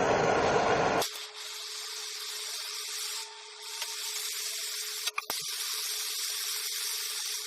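Steady hissing blast of a heat tool being played on a seized, rounding exhaust bolt to loosen it. The rushing is loud for about a second, then drops suddenly to a quieter hiss with a steady hum under it, with a short click about five seconds in.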